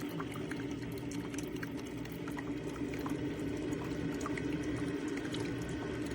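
CHULUX Classic single-serve pod coffee maker brewing: a steady hum with hot water bubbling and trickling through, with scattered small ticks.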